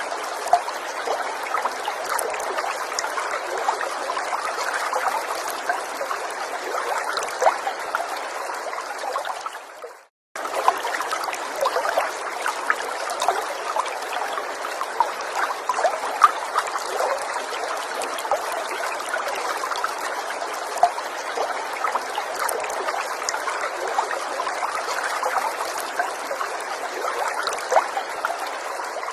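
Small forest stream trickling and babbling: a steady wash of running water with many small splashes. About ten seconds in, the water sound fades out to a moment of silence, then starts again abruptly.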